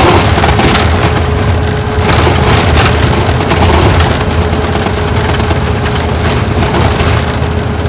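Isuzu Gala coach's V-type diesel engine running under way, heard from inside the passenger cabin as a steady low drone with a faint whine over loud road and tyre noise. Louder rattling, crackly surges come at the start, about two seconds in and near four seconds.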